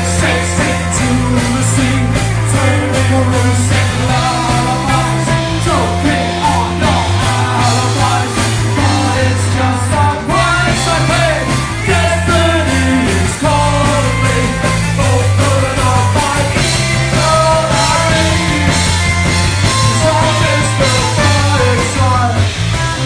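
Rock band playing live, with drum kit, bass guitar and electric guitars; the bass moves in steady, regular steps under the drums.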